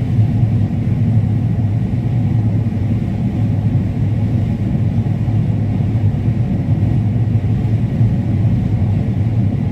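Combine harvester running steadily while cutting corn, a constant low machine hum.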